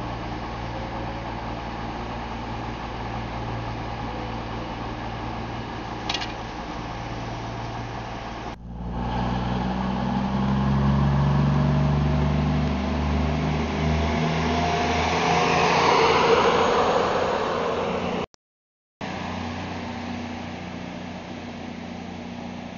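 Electric passenger train at a station: a steady low hum, then a louder stretch in which a thin whine rises slowly in pitch as the train gathers speed, loudest about two-thirds of the way in. The sound breaks off abruptly twice.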